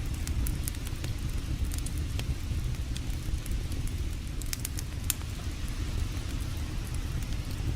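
Wood campfire crackling, with scattered sharp pops and a small cluster of them about four to five seconds in, over a steady low rumble.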